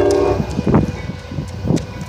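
Commuter train's horn sounding a chord that cuts off about half a second in, then the low rumble of the train moving away down the track, with two short thumps.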